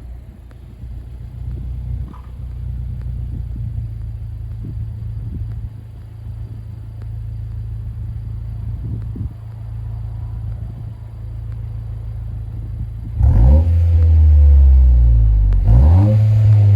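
Honda Civic FL1's 1.5-litre turbocharged four-cylinder through a COLBASSO GT-FOUR quad-outlet stainless aftermarket exhaust, idling steadily with a low drone, then revved up sharply about 13 seconds in, held, dipping briefly and revving up again near the end.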